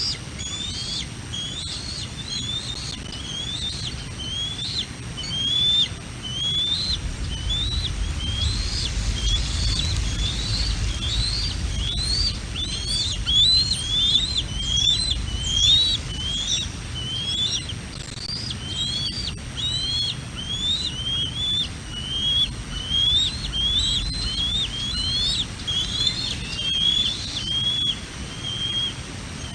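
Bald eagle calling in a long, steady series of high, whistled chirps that rise and fall. Wind rumbles on the microphone, strongest in the middle stretch.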